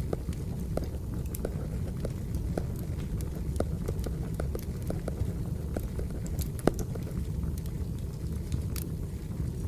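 Wood fire burning: a steady low rumble with scattered sharp crackles and pops, one louder pop about two-thirds of the way through.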